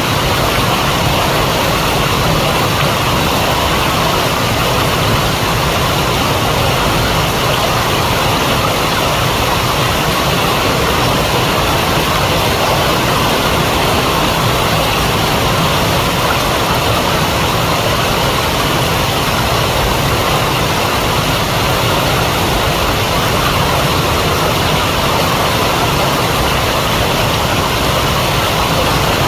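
River water rushing, a loud steady roar with no change.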